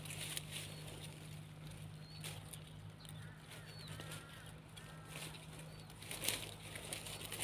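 Faint small-bird chirps, a few short calls in the middle, over a steady low hum, with scattered rustling.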